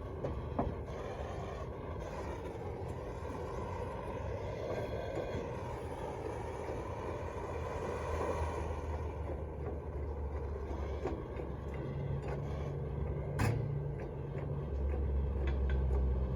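Electric blower fan forcing air into a wood fire, a steady rushing whoosh with occasional light clicks; a low hum grows stronger near the end as the air setting is changed.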